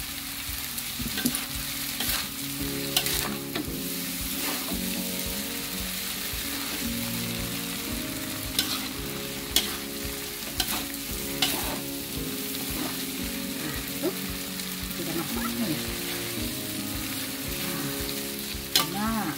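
Kueh tiaw rice noodles stir-frying in a hot pan: a steady sizzle, with the spatula scraping and knocking against the pan every second or so at times.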